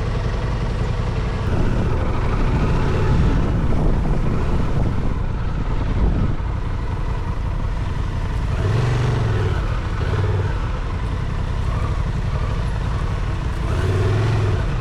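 Adventure motorcycle engine running while riding, over a steady rumble of wind and rolling noise, with the engine note rising and falling a few times.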